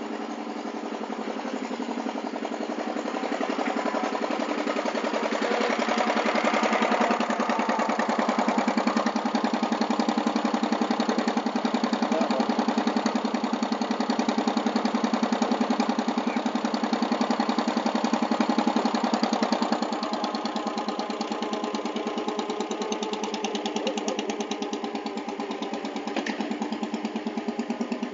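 Truck engine running steadily, growing louder over the first several seconds, then easing off a little about twenty seconds in.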